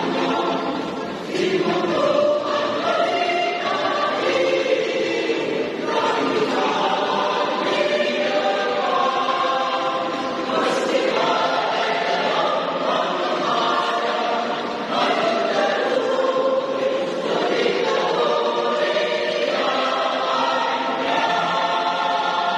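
Choir singing in long sustained phrases, with short breaks between phrases about every four to five seconds.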